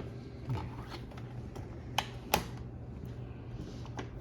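A few light clicks and taps, the sharpest two about two seconds in, a third of a second apart, over a steady low hum.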